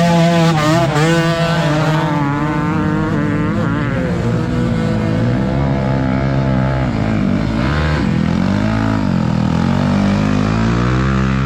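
Several motocross dirt bike engines revving hard at once, their pitch rising and falling over and over as the throttles open and close.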